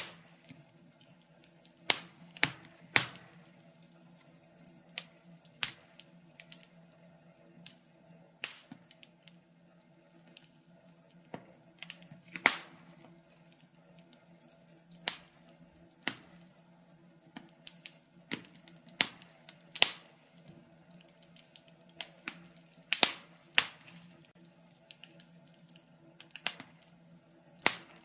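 Wood fire crackling in a fireplace: irregular sharp pops and snaps, some much louder than others, over a faint steady low background.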